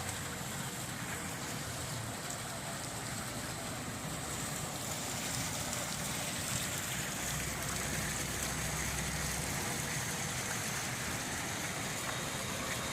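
Water fountain running, its water splashing down steadily.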